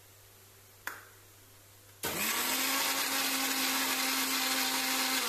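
Electric mixer grinder with a stainless-steel jar grinding cooked chillies into a paste. After a single knock about a second in, the motor starts about two seconds in, spins up quickly and runs at a steady whine, beginning to wind down right at the end.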